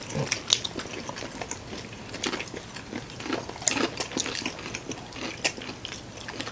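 Crunchy bites and chewing of McDonald's fried chicken: irregular crackles of the crisp breading close to the microphone.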